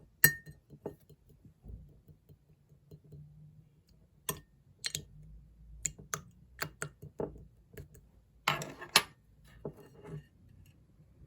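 Clear slime being squeezed and stretched by hand: scattered sharp clicks and pops, with the loudest just after the start and a quick cluster about nine seconds in.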